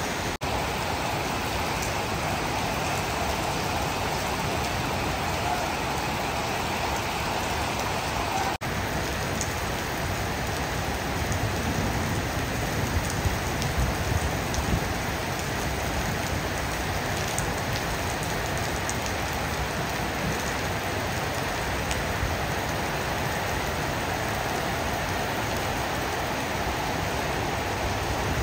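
Heavy rain falling in a steady, even hiss, with two very brief breaks in the sound.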